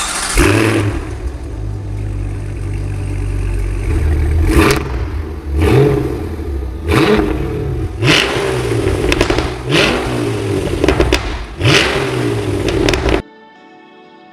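Supercharged 6.2-litre V8 of a Cadillac Escalade V: a steady low engine note, then revved up about six times in quick succession, each rev rising sharply in pitch. The sound cuts off suddenly near the end.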